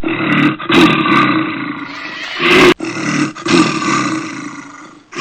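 Recorded large wild animal roaring, several roars strung together with brief breaks between them.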